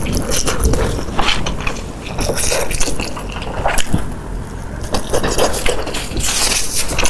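Close-miked eating sounds: wet chewing and mouth noises, with many small crackling clicks throughout.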